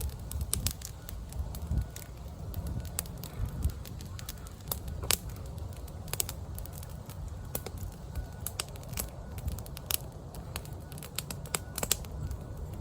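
Wood campfire crackling, with irregular sharp pops scattered throughout over a low, steady rumble.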